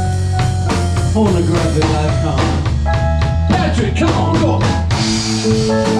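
Live bar band playing a blues-rock groove: drum kit, bass and guitar, the guitar playing sliding, bent lead notes over a steady bass line.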